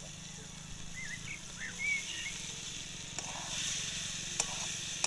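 Fried potato pieces sizzling in hot spiced oil in a wok as they are stirred into masala that has begun to release its oil. The sizzle grows louder about halfway through, with a few sharp clicks of the spatula against the pan.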